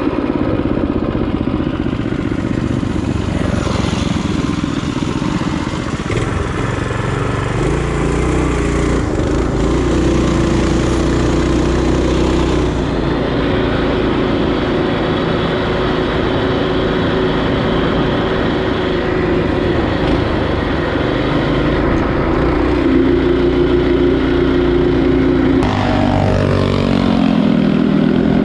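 Small single-cylinder four-stroke trail bike engine running under way, its pitch rising and falling with throttle and gear changes. The pitch drops sharply near the end.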